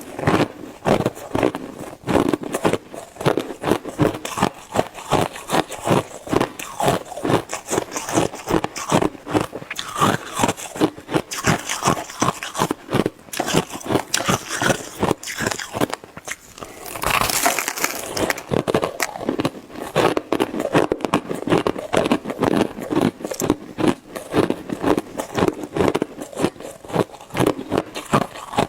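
Shaved ice being bitten and chewed: rapid crunches, several a second, with a louder rasping stretch about two-thirds of the way through.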